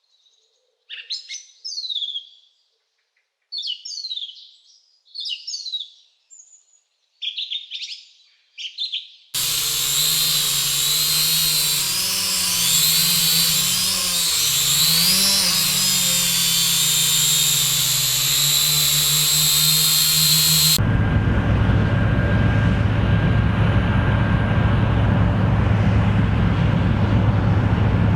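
Short bird calls with quick falling chirps, repeated in about six bursts. Then an abrupt switch to a loud, dense sound with wavering pitch, and near the end a steady engine-like drone with a low hum.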